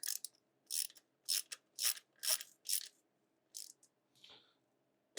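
Ratchet wrench clicking in short strokes, about two a second, then a few fainter strokes near the end, as a loose nut on the bike is tightened.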